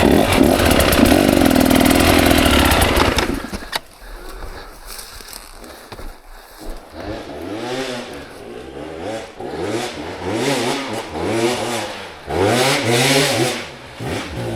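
KTM 300 XC two-stroke single-cylinder dirt bike engine revving hard under load for about three and a half seconds, then dropping off. After that it is blipped over and over, the revs rising and falling roughly once a second at a lower level.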